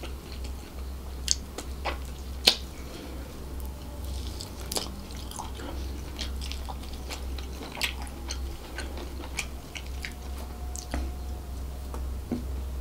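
Close-miked chewing and wet mouth sounds of a person eating chicken and fried rice by hand, with scattered smacks and a few sharp clicks, over a steady low hum.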